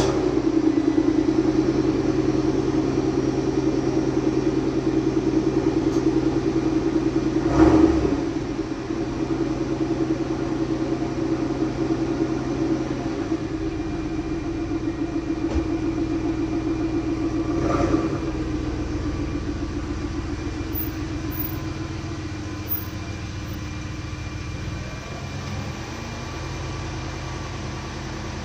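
Cadillac Northstar 32-valve 4.6 L V8 with a Corsa exhaust idling just after a cold start. It runs steadily, with a brief louder burst about 8 s in and again about 18 s in, and grows gradually quieter over the last ten seconds as the cold idle settles.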